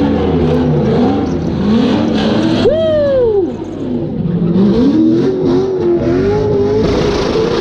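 Drift car's engine revving hard during a burnout, its pitch bouncing up and down, with one sharp rev up and drop about three seconds in.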